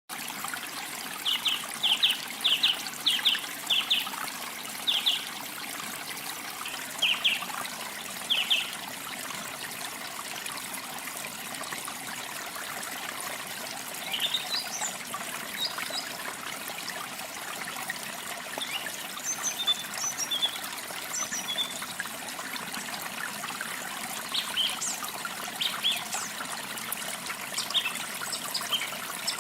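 Water trickling steadily, with small songbirds chirping over it: a quick run of short paired chirps in the first few seconds, then scattered higher chirps and calls in the second half.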